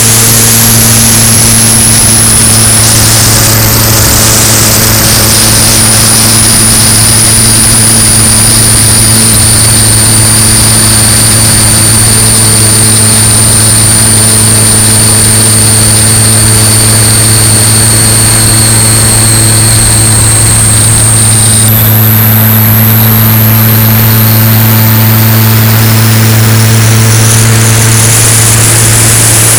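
Cessna 170 single-engine light aircraft in flight, its piston engine and propeller making a loud, steady drone that holds constant throughout. A thin high whine rides on top and jumps in pitch about two-thirds of the way through.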